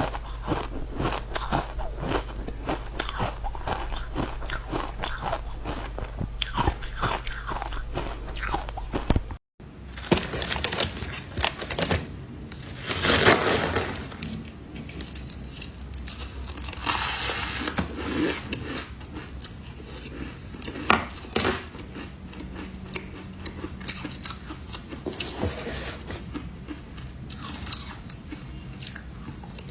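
Someone biting and chewing ice close to the microphone: dense crunching for the first nine seconds or so, a brief break to silence, then sparser, louder crunching bites.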